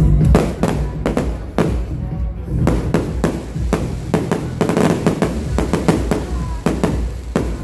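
Aerial fireworks bursting in a rapid, irregular string of bangs and crackles, over loud music.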